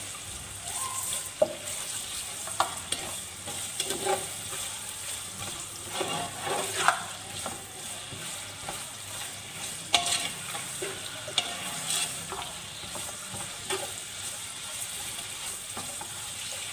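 Julienned carrots sizzling in hot oil in a metal pot while a wooden spatula stirs them, scraping through the pieces and giving sharp knocks against the pot now and then.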